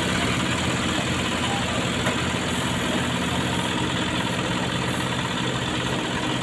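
Heavy-haul truck's diesel engine running steadily at low revs while hauling a power transformer.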